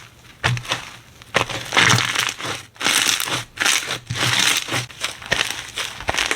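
Slime being squeezed and pressed by hand: an irregular run of squishes, several a second, with short pauses.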